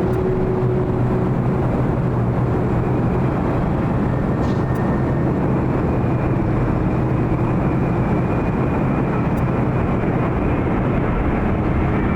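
Boeing 787 Dreamliner jet engines heard on the airfield: a steady, loud noise with a faint high whine on top.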